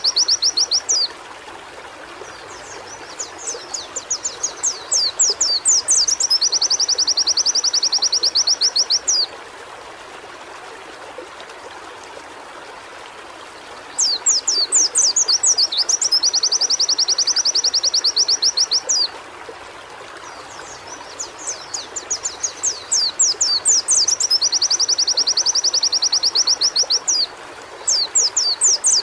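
White-eye (pleci) song in repeated bouts. Each bout is a string of fast sweeping high notes that runs into a rapid trill, with pauses of a few seconds between bouts and a steady hiss underneath.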